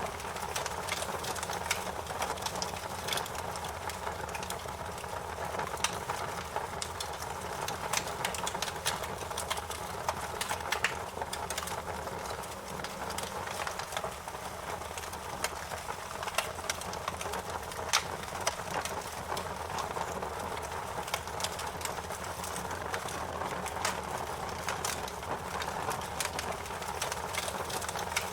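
Fire crackling in a fireplace: a steady hiss of burning with frequent small sharp pops and snaps, a few of them louder, scattered throughout.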